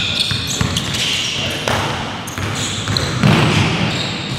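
Basketball bouncing a few times on a hardwood gym court during play, with players' voices in the echoing hall.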